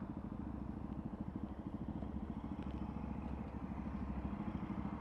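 Motorcycle engine running steadily at low, even revs with a fast regular pulsing beat, as the bike is ridden.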